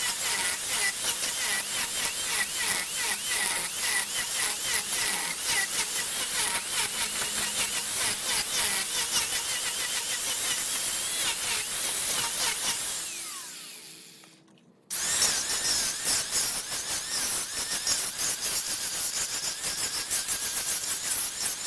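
Wood lathe turning a piece of wood while a cutting tool scrapes into it: dense, rapid scraping with squealing tones over it. The sound fades out about two-thirds through and cuts back in abruptly a second later.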